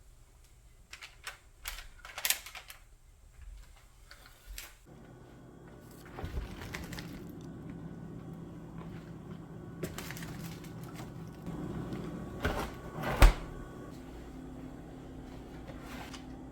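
Scattered clicks and knocks of kitchen things being handled. About five seconds in a steady appliance hum starts and runs on. A sharp knock comes near the end.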